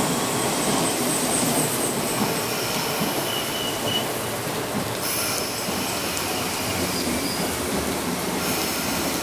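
MTR East Rail Line electric multiple unit running past the platform, a steady rush of wheels on rail with brief high-pitched wheel squeals now and then.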